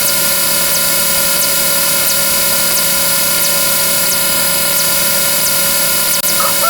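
Dense layered mix of looping counter sound effects: a steady horn-like chord of several held tones over a rushing, rumbling noise, with faint ticks repeating a little more than once a second.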